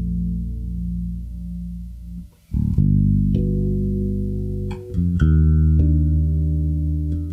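Slow guitar introduction: plucked chords left to ring with a deep low end, changing every second or two, with a brief break about two and a half seconds in.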